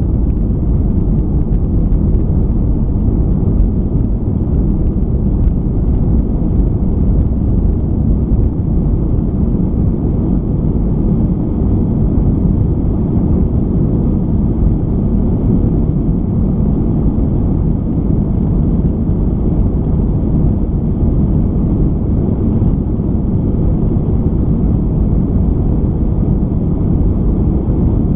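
Airbus A320 cabin noise in the climb just after takeoff: the steady, loud rumble of the engines and rushing air.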